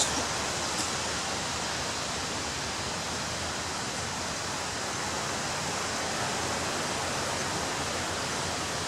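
Ocean surf breaking on a beach, heard as a steady, even rushing wash without distinct separate wave crashes. Two faint sharp ticks sound in the first second.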